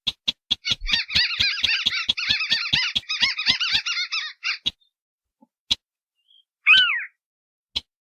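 Recorded calls of wetland crakes, the white-browed crake and the Sintar beker, played as a bird lure. A fast run of sharp ticks, about six a second, is joined about a second in by a dense chattering of rising-and-falling notes that breaks off near the middle. After a short pause comes a single downward-sliding call.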